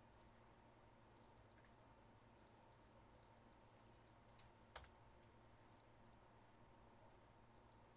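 Near silence with faint, scattered computer keyboard clicks over a low steady hum, and one sharper click a little before five seconds in.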